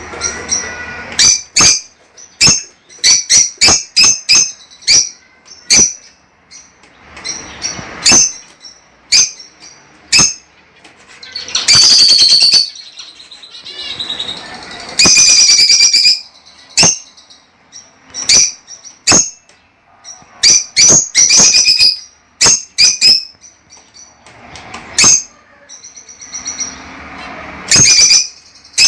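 Fischer's lovebirds calling: a string of loud, sharp, high-pitched chirps, with two longer harsh chattering bursts about twelve and fifteen seconds in.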